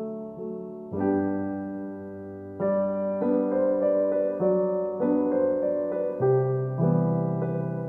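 Background music: a gentle solo piano piece, soft chords struck and left to ring, changing every second or so.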